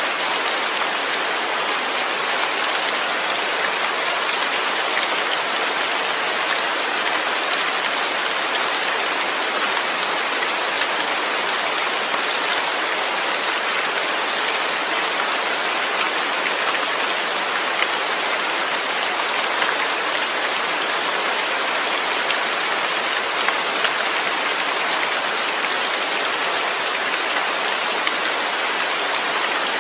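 Steady rain falling, an even hiss with no thunder or other events.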